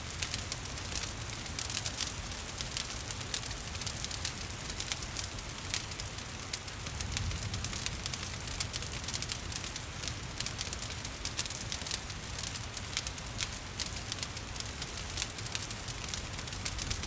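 Wood fire crackling and popping in a fireplace, with many small irregular snaps over a steady hiss of gentle rain.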